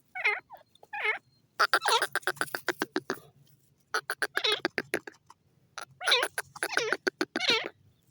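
Teetar (francolin) calling loudly in repeated bursts: each burst is a fast run of sharp clicking notes running into harsh, wavering whistled notes that bend up and down in pitch. There are about five bursts with short pauses between them.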